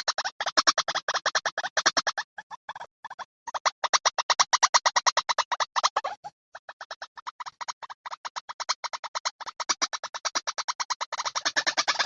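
Recorded calls of the white-breasted waterhen (ruwak-ruwak) played back as a bird lure: a fast, harsh train of pulses, about eight a second, breaking off briefly about two seconds in and again about six seconds in.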